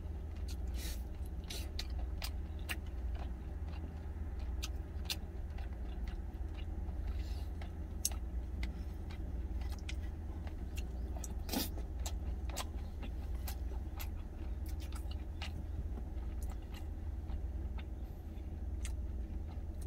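A man chewing food, with scattered short clicks of chopsticks against a stainless steel bowl, over a steady low hum of the truck's idling engine.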